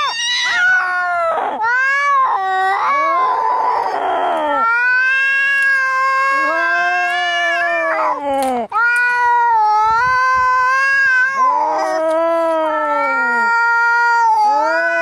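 Cats fighting: long, drawn-out angry yowls that waver and bend in pitch, one after another with short breaks. A hiss comes about three to four seconds in.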